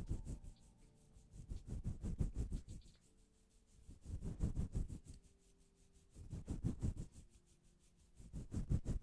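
Rhythmic rubbing and scraping, in about four bursts of rapid strokes roughly two seconds apart.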